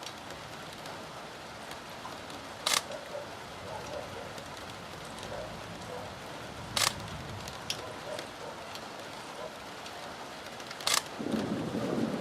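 Steady rain, with three short sharp clicks about four seconds apart. Near the end the thunder from a nearby lightning strike starts to rumble and quickly grows louder.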